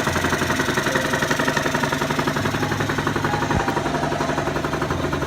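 Genuine Roughhouse 50 scooter's 49cc two-stroke single-cylinder engine idling steadily with an even, rapid pulsing exhaust beat. It is on a cold start just after a fresh top-end rebuild (new cylinder, head and piston) and is not yet broken in.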